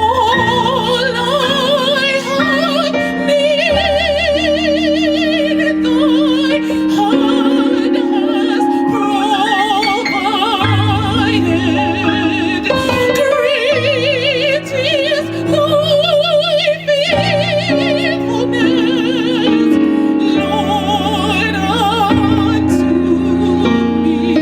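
Gospel singing with a strong vibrato over an accompaniment of held low notes, the melody moving from note to note without a break.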